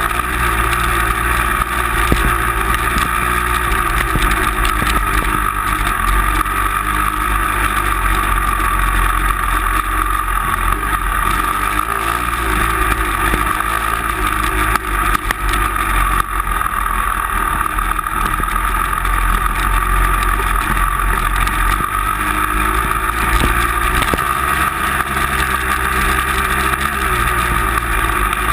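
A vehicle engine runs steadily under load while driving, a continuous drone with slight rises and falls in pitch.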